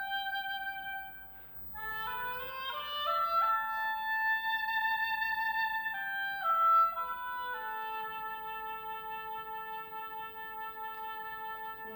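High school choir singing held chords, several parts moving in steps from note to note, with a brief break about a second and a half in.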